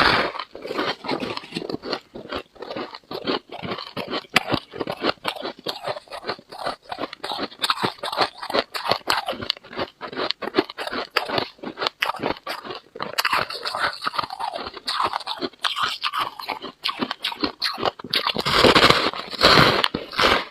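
Freezer frost being bitten and chewed close up: a constant run of fast, crisp crunches and crackles, with a couple of louder bites near the end.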